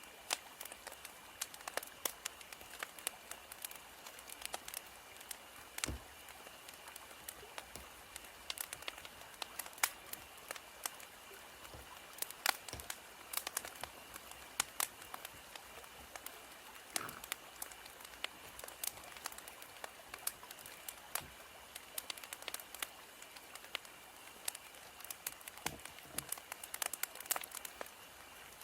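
Wood fire crackling: irregular sharp pops and snaps over a soft hiss, with one stronger pop about six seconds in.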